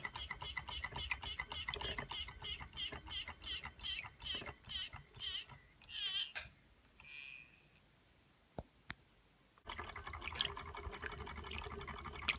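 Reichelt Adler toy Stirling hot-air engine and the Péricaud model pump it drives, clicking and squeaking rhythmically at about four strokes a second. The strokes slow and stop about six seconds in. After a few nearly quiet seconds with two sharp clicks, fast ticking running starts again abruptly near the end.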